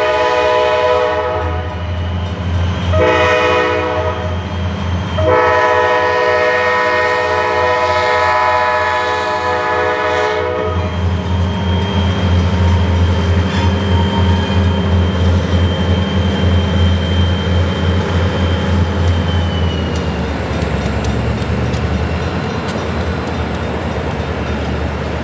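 Diesel freight locomotive's multi-chime air horn blowing for a crossing: a blast ending about a second in, a short blast, then a long one of about five seconds. After that the locomotive's diesel engine runs with a steady low rumble and a regular pulsing beat as the train moves off.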